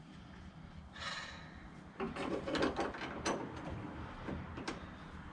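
Hand-fitting noises: a short rustle about a second in, then scattered small clicks, knocks and rubbing of parts being pushed into place.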